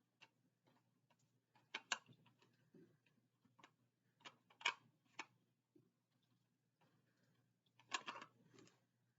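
Faint, scattered clicks and taps, loudest about two seconds in, near the middle and near the end: a screwdriver and hands working at a small screw that holds a model car in its packaging.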